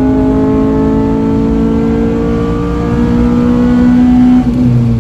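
Honda Civic Type R FN2's K20/K24 hybrid four-cylinder engine, with a cat-back exhaust, pulling hard under full throttle on track. The revs climb slowly and steadily, then drop suddenly near the end.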